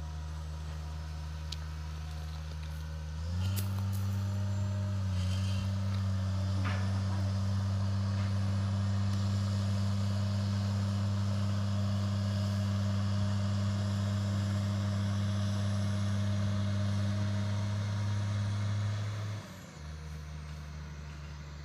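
Diesel engine of a Kirow railway crane idling, then revving up about three seconds in and holding a steady higher speed for some sixteen seconds before dropping back to idle near the end.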